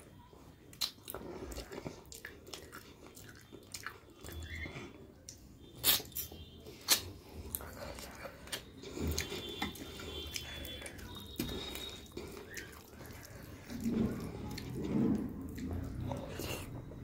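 Close-up chewing and wet mouth sounds of a person eating rice and chicken curry by hand, with soft squishing as the rice and curry are mixed on the plate. Many small wet clicks run through it, with two sharper clicks around the middle.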